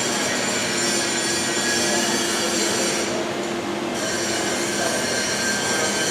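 Steady mechanical hum with several high, steady whining tones held throughout.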